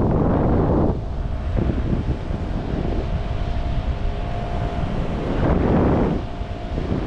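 Strong wind buffeting the microphone, with heavy gusts about a second in and again near the end, and a faint steady hum underneath.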